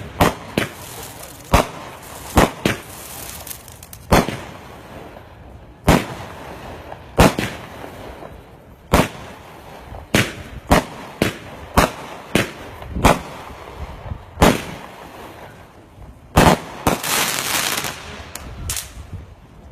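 Multi-shot firework cakes going off: a string of sharp bangs at an uneven pace, roughly one a second, with a couple of seconds of dense crackling near the end.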